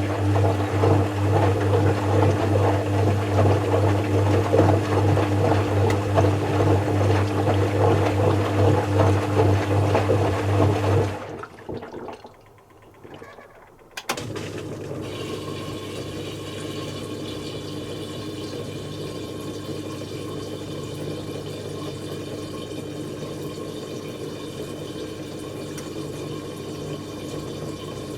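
Zanussi FC1000 compact washing machine's drain pump running with a loud hum and rushing water, stopping about eleven seconds in. After a short lull and a click, water runs in steadily as the machine fills.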